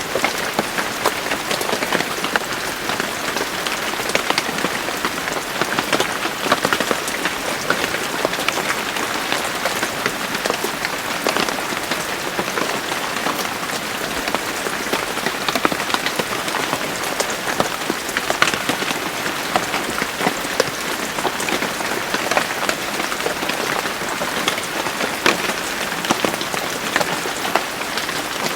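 Steady rain falling on a surface, an even hiss with many close, crisp drop impacts and no thunder.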